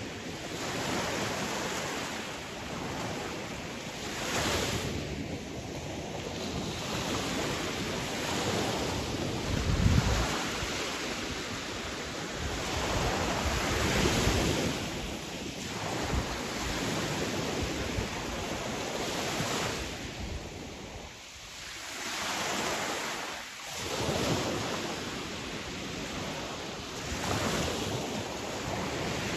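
Sea waves breaking and washing in, the surf rising and falling in swells every few seconds, with wind buffeting the microphone and a low thump about ten seconds in.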